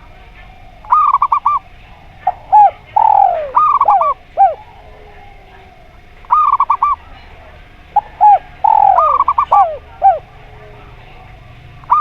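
Zebra dove and spotted dove cooing: bursts of four or five rapid staccato coos come every few seconds. Between them are lower, drawn-out coos that fall in pitch.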